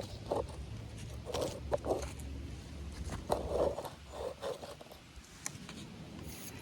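Small-scale RC rock crawler scraping and crunching over rocks and forest litter: a series of short, irregular crunches and scrapes with a few sharp clicks, over a low steady rumble.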